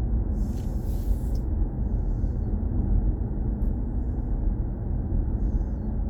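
Steady low road and tyre rumble of a BMW i4 M50 electric car being driven, with a brief hiss about a second in.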